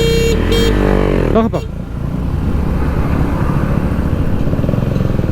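Motorcycle riding through traffic, with a steady low rumble and rushing wind on the microphone. Two short horn beeps sound at the start.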